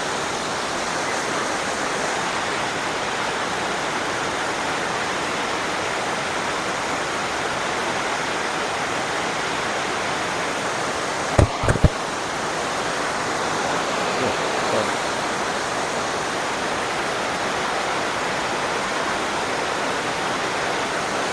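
Erin Ijesha waterfall's first level: water falling and splashing in a steady rush. A quick cluster of two or three sharp knocks cuts through a little past halfway.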